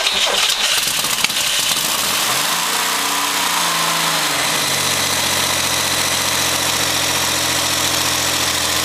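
Modified 3.1-litre Corvair air-cooled flat-six running just after its first cold start: uneven for the first couple of seconds, revving up and back down, then settling into a steady idle.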